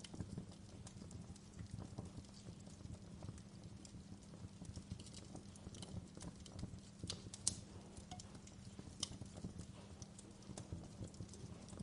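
Wood fire crackling: a steady low rumble of burning with frequent small sharp pops and snaps, a few louder pops in the second half.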